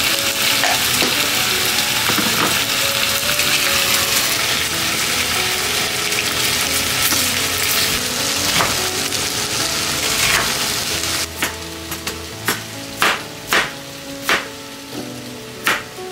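Thin-sliced chicken breast sizzling as it fries in a cast-iron pot, stirred with a wooden spatula. About eleven seconds in, the sizzle gives way to a kitchen knife chopping onion on a plastic cutting board: a string of sharp, uneven chops.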